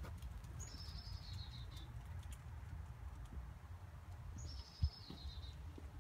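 A bird calling twice, each call a quick run of notes falling in pitch and lasting about a second, over a steady low rumble, with a single dull thump near the end.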